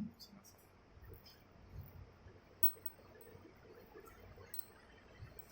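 Faint, scattered light clicks and metal clinks from engine parts and bolts being handled, over a low background rumble.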